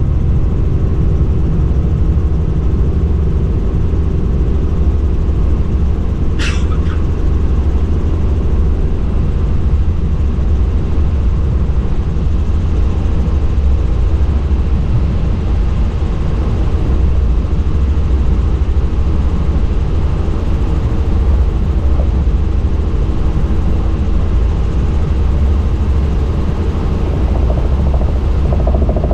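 Helicopter in flight, its engine and rotor making a loud, steady, deep drone. A single short click comes about six seconds in.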